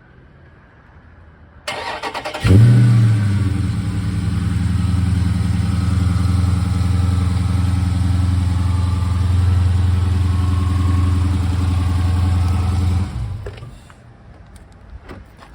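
A Chrysler 300 SRT's V8 engine being remote-started: the starter cranks briefly, the engine catches with a loud flare of revs about two and a half seconds in, then settles into a steady idle. The idle sound drops away sharply about 13 seconds in.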